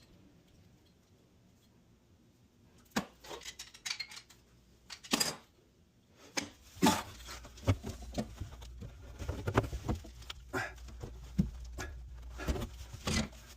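Scattered metallic clinks, knocks and rattles of tools and plumbing parts being handled in a cramped cabinet, starting about three seconds in and growing busier from about six seconds.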